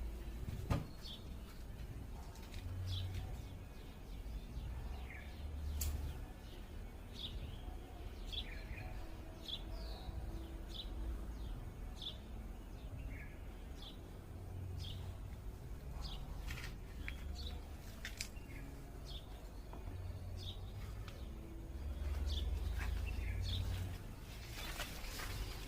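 Small birds chirping with many short, separate high chirps, over a low rumble that comes and goes, with a sharp click about a second in.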